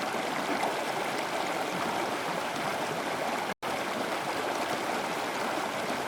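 Flowing stream water running steadily, cutting out for a split second a little past halfway.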